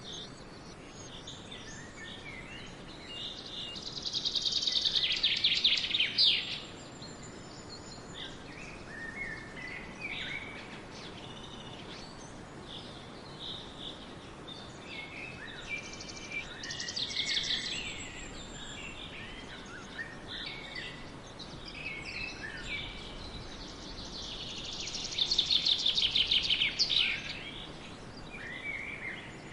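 Birds singing: many short high chirps over a steady background hiss, with a louder rapid trill that comes three times, about ten seconds apart.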